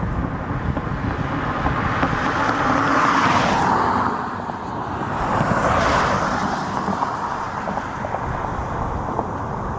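Two road vehicles passing by on a highway, the tyre noise swelling and fading about three seconds in and again about six seconds in, over a steady low rumble.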